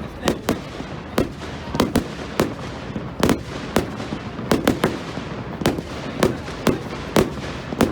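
Fireworks going off in a rapid, irregular string of sharp bangs, about two a second, over a steady background rumble.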